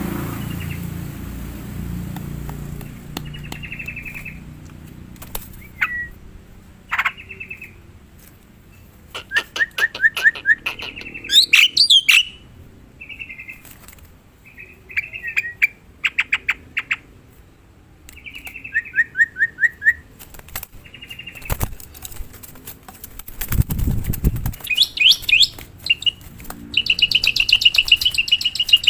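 A black-winged starling calling and singing: a varied run of short whistles, rapid chattering trills and clicks, with gaps between phrases. A brief low rumble comes about three-quarters of the way through.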